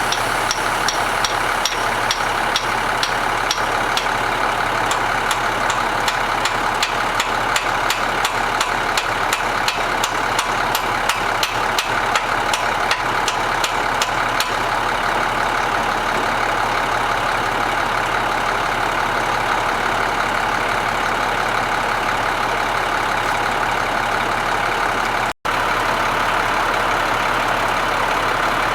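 Crane truck's engine idling steadily, with a quick regular ticking over it for about the first half.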